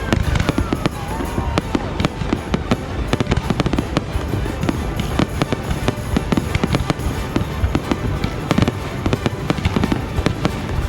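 Fireworks display: a dense, continuous barrage of bangs and crackling pops, with a whistling glide near the start.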